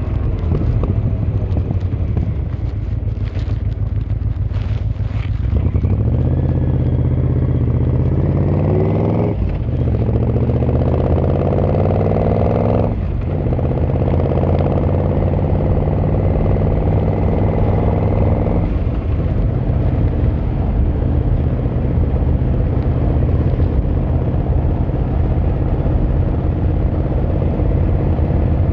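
Yamaha XVZ1300 Royal Star's V4 engine and exhaust on the move. It runs low and steady at first with a few clicks, then pulls away with rising pitch. The pitch drops sharply at two upshifts, about nine and thirteen seconds in, before it settles into a steady cruise with road and wind noise.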